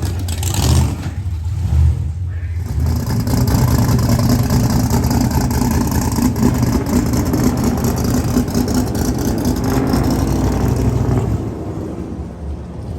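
Car engine revving in uneven surges, then running on steadily under load for several seconds before easing off near the end.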